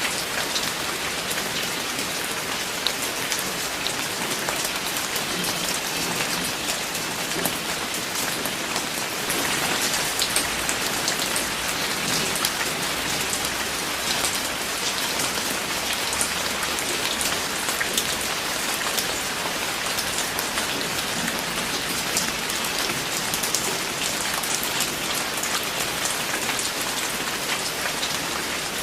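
Steady rain falling, with many distinct drops pattering and ticking on a hard surface over a constant hiss.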